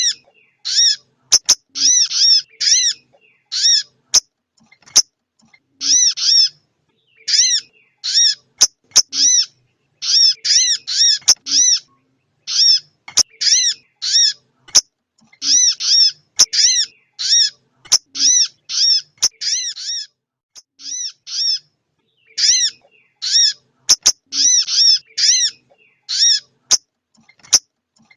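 Female sogon ontong bird calling, as in a bird-lure recording: short arched notes repeated in quick runs of two to five, with brief pauses between runs and occasional sharp clicks. It is the female's call meant to draw in a male.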